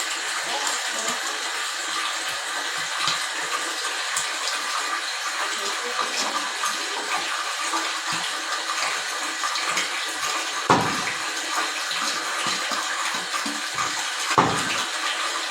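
Steady rush of running water, with two sharp knocks, one about eleven seconds in and one near the end.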